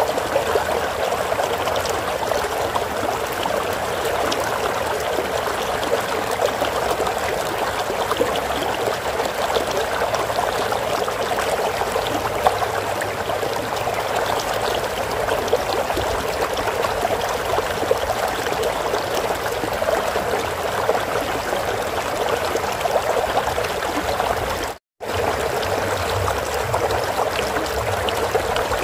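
Flowing stream water running and trickling steadily, an even rushing noise, broken by a momentary cut to silence near the end.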